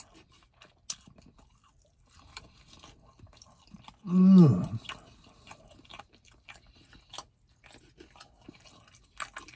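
Close-up mouth sounds of a man chewing fried meat: wet chewing, lip smacks and small crackles. About four seconds in comes a brief, loud hum of the voice that falls in pitch.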